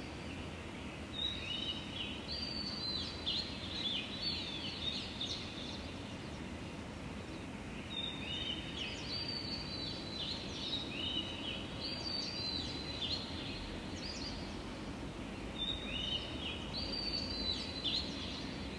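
Songbirds singing at dawn: three bouts of high, quick whistled phrases, each of flat notes and short downward sweeps, with a few seconds' pause between bouts. Under them runs a steady low hum of city background noise.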